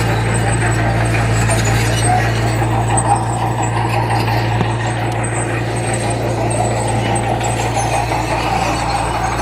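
Heavy diesel earthmoving machine engine running steadily under load, a constant low hum with no pauses or changes in speed.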